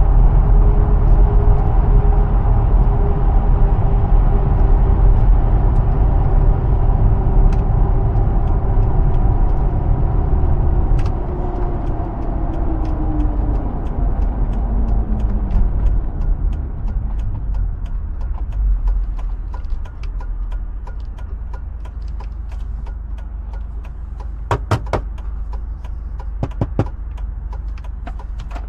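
Cabin sound of a 2005 Hummer H2 with a 6.0 L V8 on the move: a deep rumble with a steady whine that falls in pitch about fourteen seconds in as the vehicle slows. From about twenty seconds it settles to a quieter low hum, with a few sharp clicks near the end.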